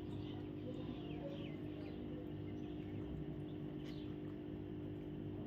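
A few faint short chirps from a parrot over a steady low hum, with scattered faint clicks.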